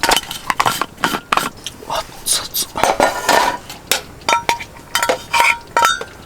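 Eating utensils clinking and tapping against dishes and cookware in a quick, uneven series of knocks. Several strikes leave short metallic rings, mostly in the second half.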